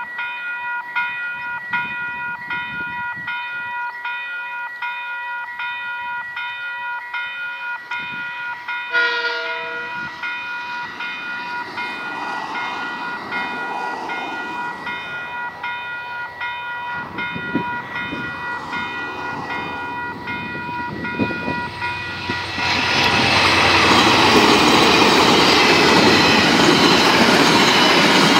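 Level crossing bells ringing in a steady rhythm, with a short train horn blast about a third of the way in. Freight train 934 then approaches, and in the last few seconds its wagons roll loudly over the crossing, drowning out the bells.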